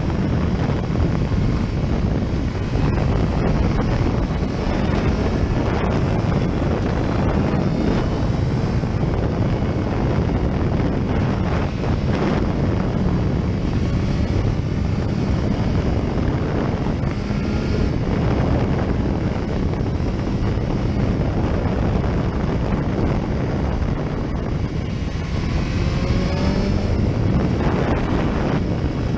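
Wind buffeting a camera microphone on a moving motorcycle, with the engine running underneath.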